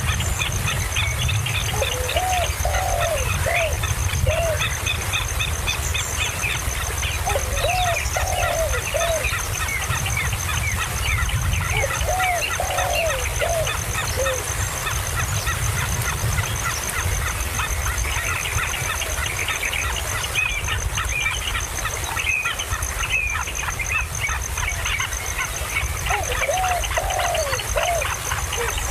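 Birds chirping continuously with many short, high chirps. A lower call of three or four quick arched notes comes four times. A steady low rumble runs underneath.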